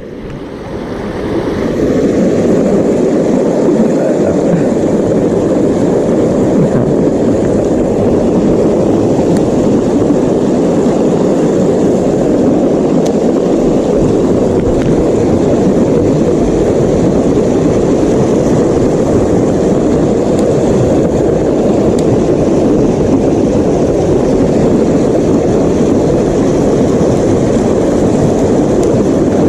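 Boat motor running steadily under way, building up over the first couple of seconds and then holding a constant drone.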